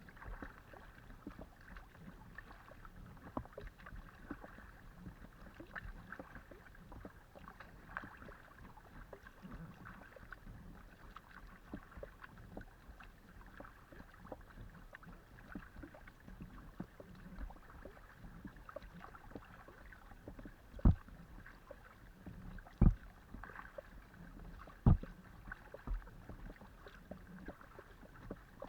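Kayak being paddled: water splashing and dripping off the paddle blades in a steady rhythm of small ticks. Near the end come three sharp knocks about two seconds apart, then a weaker one.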